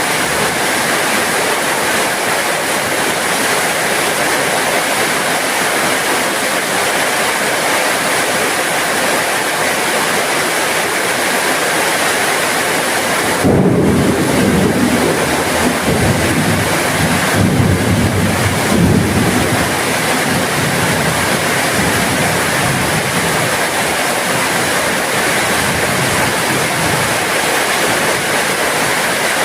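Steady heavy rain. About halfway through, a rumble of thunder starts suddenly and rolls on in surges for several seconds before fading back under the rain.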